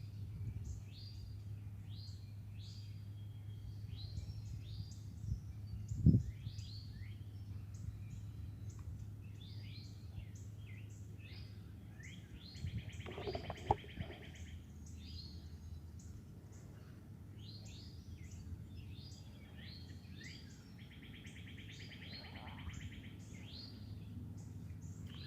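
Several songbirds chirping and singing, with two longer buzzy trills, over a steady low hum. A sharp thump, the loudest sound, comes about six seconds in, and a smaller knock comes about halfway through.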